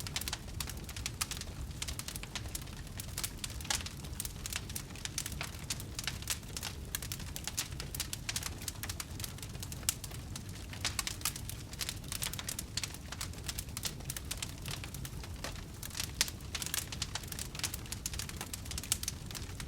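Wood fire burning in a fireplace, crackling with dense irregular snaps and the odd louder pop over a low steady rumble of the flames.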